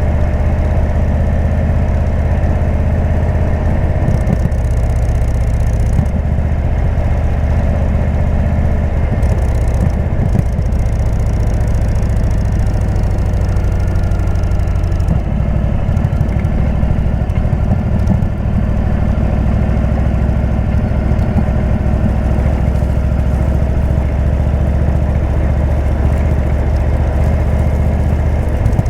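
Indian V-twin motorcycle engine running steadily through a Jekill & Hyde exhaust, a deep even note with no revving.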